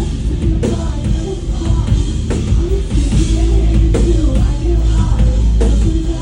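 Loud live concert music with a heavy bass and drum beat and a voice singing over it.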